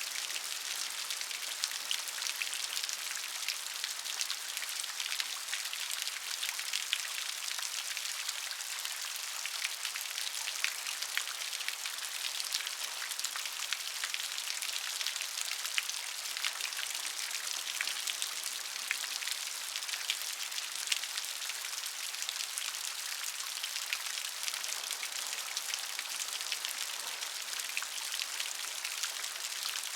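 Steady rain falling on a surface, a dense patter of drops with many small sharp taps, an even hiss that is mostly high in pitch.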